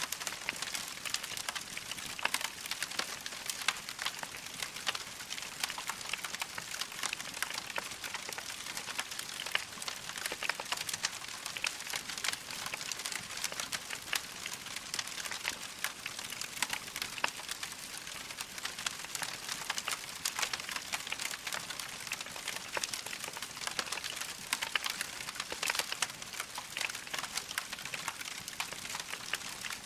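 Wood fire crackling in a fireplace: a continuous dense patter of small pops and snaps.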